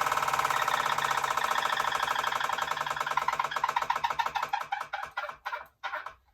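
Elite Direto smart trainer's flywheel spinning down, a whirring noise that pulses with each turn, the pulses slowing and fading out near the end as it comes to a stop. This is the noise that the owner reports as a sound issue with the trainer.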